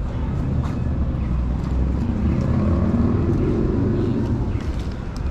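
City street traffic, with a vehicle passing that grows louder and fades away in the middle.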